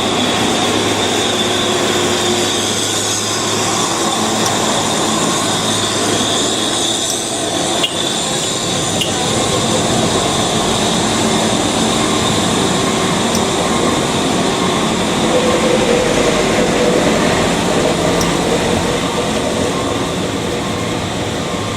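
Steady, loud running noise of heavy truck traffic: engines and tyres, with a high steady whine for the first seven seconds or so.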